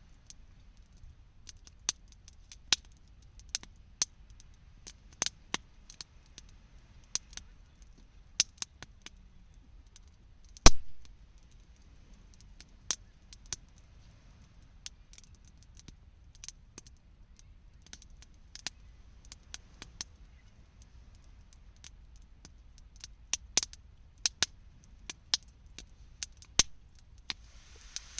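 Wood campfire crackling: irregular sharp pops and snaps, with one much louder pop about ten seconds in, over a low steady rumble.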